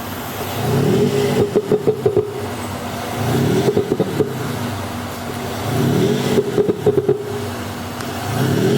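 Range Rover Velar's active sound exhaust system playing a synthesized engine note, revved up repeatedly about every two and a half seconds, each rise in pitch ending in a quick burst of pops and crackles, the system's pop-and-bang effect.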